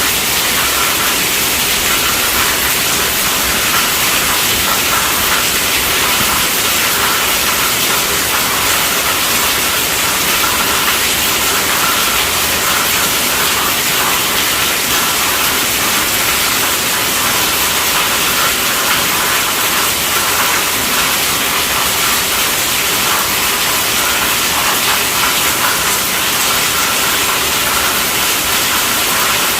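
Steady, dense rainfall hissing evenly, without breaks or single drops standing out.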